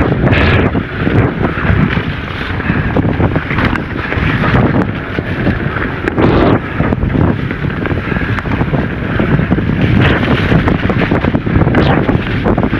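Wind buffeting the microphone of a camera on a moving electric mountain bike, a loud low rumble throughout, with frequent short knocks as the bike runs over rough singletrack.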